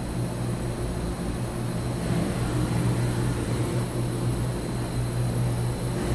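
Mazak HCN 4000-III horizontal machining center traversing its Z axis at 25% rapid: a steady mechanical hum from the servo-driven ball screw and way covers. No ball screw or thrust bearing noise can be heard, a sign that both are in good order.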